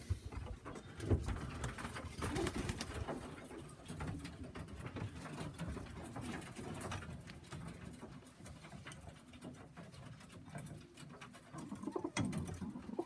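Tippler pigeons cooing, with scattered light clicks and knocks.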